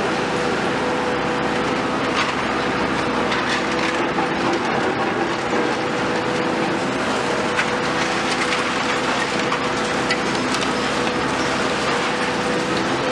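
Demolition excavator's engine running steadily while building debris crunches and breaks, with scattered sharp cracks.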